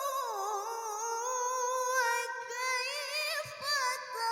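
A woman's voice chanting Quran recitation in the melodic tilawah style. She holds the drawn-out last vowel of "sabra" with a wavering, ornamented pitch that slides down just after the start. About three seconds in she begins the next verse with "wa kayfa".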